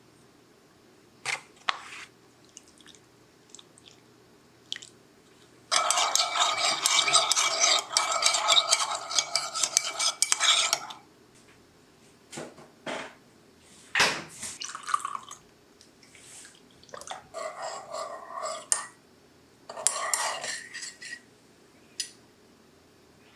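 Dishes and cutlery clinking and clattering, with a steady rushing noise lasting about five seconds in the middle and two shorter bursts of it later.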